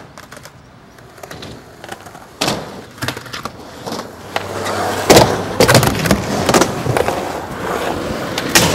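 Skateboard wheels rolling on pavement, growing louder from about halfway through, with a string of sharp clacks and slaps of the board, the loudest about five seconds in.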